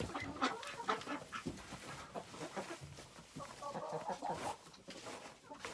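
Chickens clucking, with a burst of quick chattery clucks about four seconds in, over scattered rustling and knocking.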